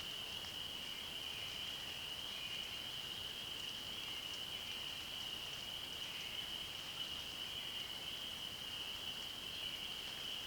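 A steady high-pitched chorus of many small calling animals, a continuous shrill trilling with no break, over a faint background hiss.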